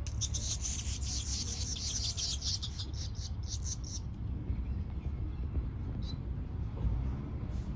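Birds chirping in a quick run of short, high-pitched notes for about four seconds, then one more chirp about six seconds in, over a steady low rumble.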